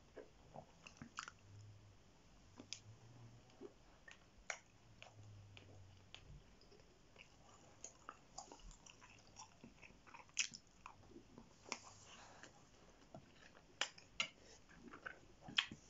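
Close-up chewing of chicken massaman curry: quiet, irregular wet mouth clicks and smacks as soft food is eaten.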